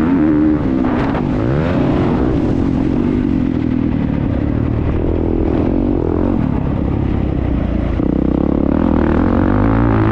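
Motocross motorcycle engine revving hard, its pitch rising and falling again and again as the throttle opens and closes, heard from on board the bike.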